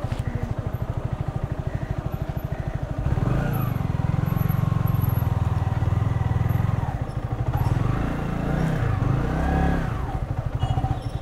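Yamaha R15 V3's single-cylinder engine ticking over with an even pulsing beat, then pulling away at low revs about three seconds in, the revs rising and falling a few times near the end.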